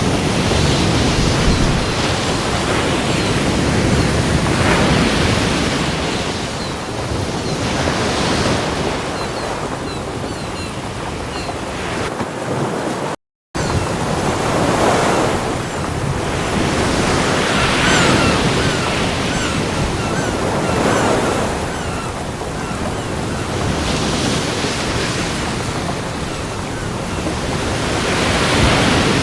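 Ocean surf: waves breaking and washing on a beach, a steady noisy rush that swells and falls every few seconds. About halfway through, the sound cuts out completely for a split second.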